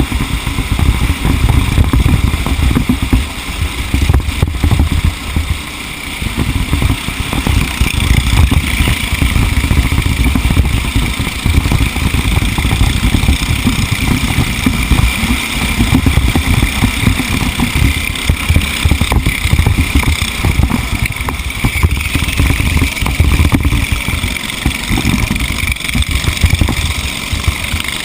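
Racing engine running hard at speed, heard onboard, with wind buffeting the microphone.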